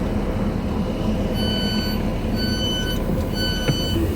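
Door-closing warning beeps on a Class 156 diesel multiple unit: a pitched beep about once a second, three in a row starting about a second in, over the steady low rumble of the idling diesel train.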